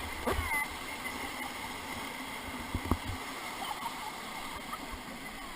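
Rushing whitewater of a river rapid: a steady wash of water noise, with a faint voice near the start and a low knock about three seconds in.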